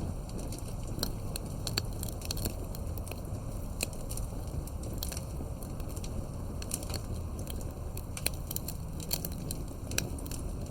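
Campfire crackling: many irregular sharp pops and snaps, several a second, over a steady low rumble of the burning fire.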